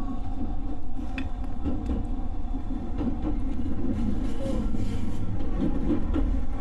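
Running noise of an electric commuter train heard from inside the carriage: a steady low rumble of wheels on rails, with a few faint clicks.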